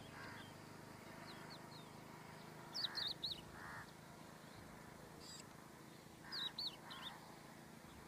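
A small songbird calling: three short bursts of quick, high, warbling chirps, about three and a half seconds apart, each followed by a fainter lower note, over a faint steady hum.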